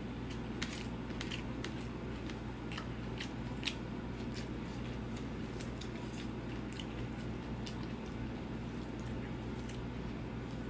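A person chewing with the mouth open, eating rice and pork curry by hand: irregular wet smacks and clicks of the mouth and fingers, over a steady low hum.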